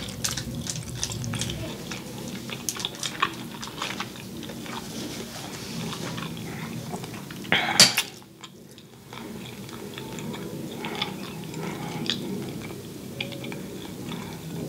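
Close-miked chewing and biting of meat, with wet mouth sounds and scattered clicks of a metal fork against a foil-lined tray. A louder click stands out about eight seconds in.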